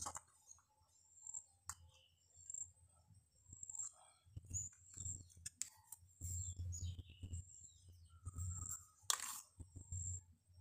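Small birds chirping faintly, a short high chirp repeated roughly once a second, over soft low rumbles and a few light clicks.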